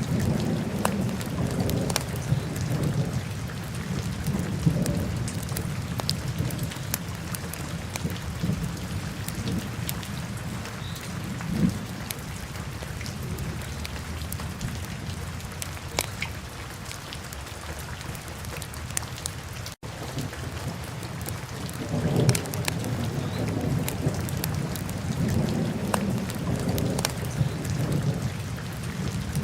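Wood fire burning in a fireplace: a steady low rumble of flames with many scattered crackles and pops. The sound cuts out for an instant about twenty seconds in.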